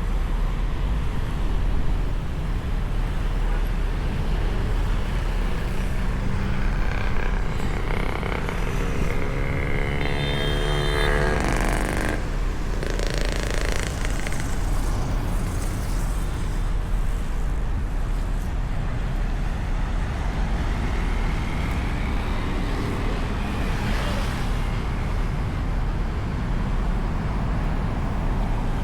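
Light road traffic with a steady low rumble. About a third of the way in, a passing vehicle's engine note rises in pitch for a few seconds.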